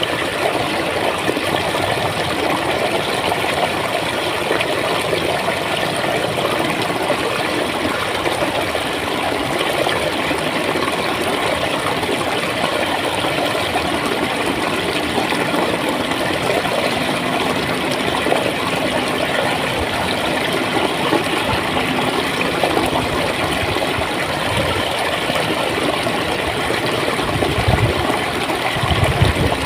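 Flowing water gurgling steadily, with a couple of brief low bumps near the end.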